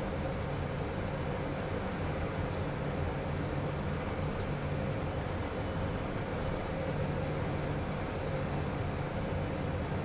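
Steady cockpit noise of a Beechcraft Premier I jet on final approach: rushing airflow and the hum of its twin Williams FJ44 turbofans, with a faint steady tone running through it.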